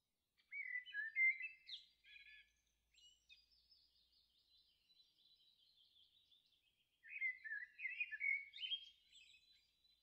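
A songbird singing: a loud, fast warbling phrase about half a second in and another about seven seconds in, with softer high twittering between them.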